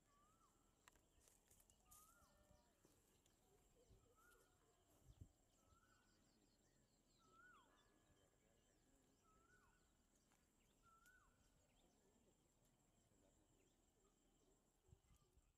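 Near silence: faint outdoor ambience with a bird repeating a short call that rises and then drops, seven times, a little under two seconds apart.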